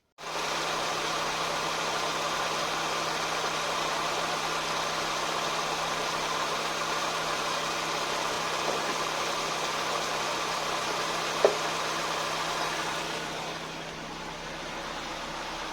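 Nissan Tsuru III four-cylinder engine running steadily at idle, with one sharp click about eleven seconds in and the sound dropping slightly in level near the end.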